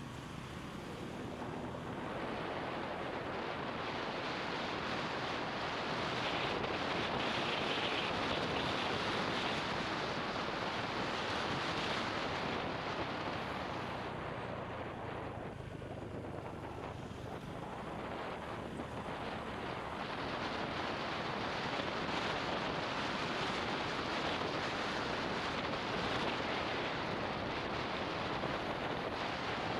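Wind rushing over the microphone of a camera riding on a moving motorbike, with road and engine noise underneath. It swells over the first few seconds, eases a little around the middle, then builds again.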